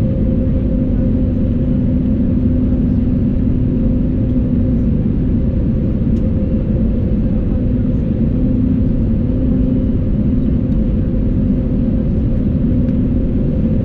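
Inside the cabin of an Airbus A320neo, the CFM LEAP-1A engines and the rushing airflow make a loud, steady drone with two constant hums, one low and one an octave higher. The thrust does not change.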